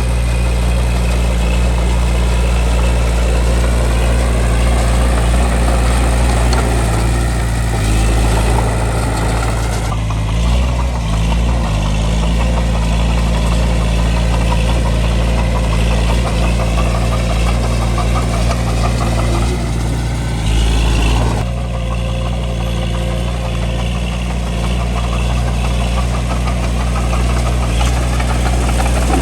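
Bulldozer's diesel engine running steadily, with a dense mechanical clatter over it. Its sound shifts about ten seconds in and again about twenty-one seconds in.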